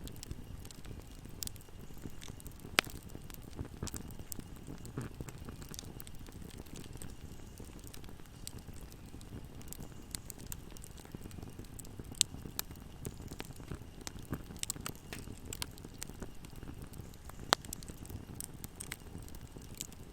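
Fire in a fireplace burning with a steady low rumble of flames and scattered crackles and pops, a few sharper snaps standing out above the rest.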